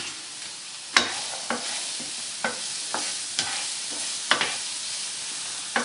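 Smoked tofu cubes with garlic and onion sizzling in hot coconut oil in a nonstick frying pan, a steady hiss, while a spatula stirs, knocking and scraping against the pan about seven times.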